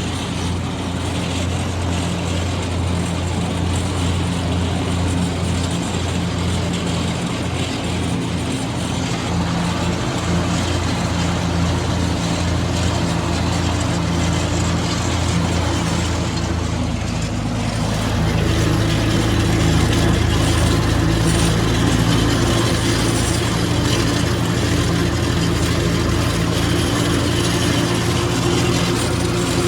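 Old Ford tractor's four-cylinder engine running steadily, driving a 7 ft finishing mower; its note shifts and gets a little louder about 18 seconds in.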